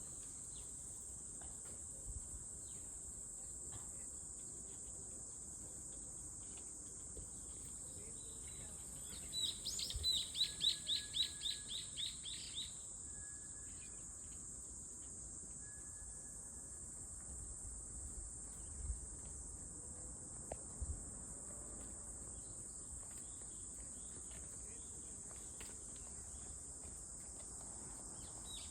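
Cicadas keeping up a steady, high-pitched drone, with a short run of about a dozen quick chirps about ten seconds in, and a couple of faint thumps later.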